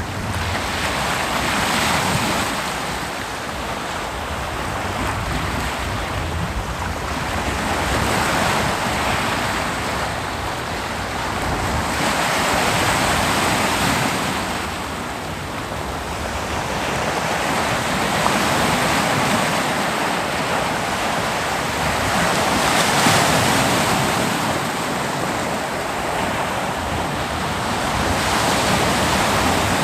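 Ocean surf breaking on a beach, a continuous rushing hiss that swells with each wave every few seconds, with some wind on the microphone.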